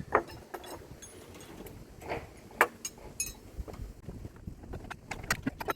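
Hand tools working on metal car parts: irregular sharp clicks and knocks, some ringing briefly, with a quick run of clicks near the end.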